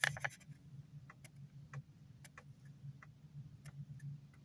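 Scattered light clicks and taps, the loudest at the very start, over a faint steady low hum.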